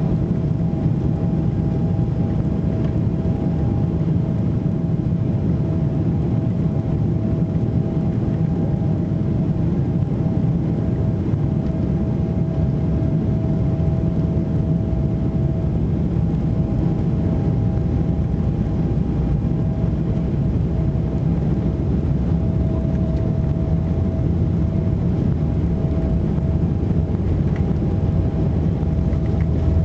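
Boeing 777-300ER's GE90 jet engines heard inside the cabin at high thrust during takeoff: a steady heavy rumble with a constant whine on top.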